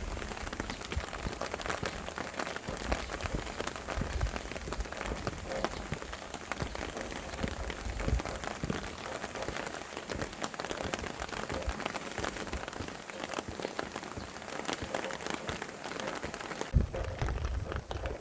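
Steady rain falling, with many separate drops hitting a surface, and low gusts of wind that swell now and then, the strongest near the end.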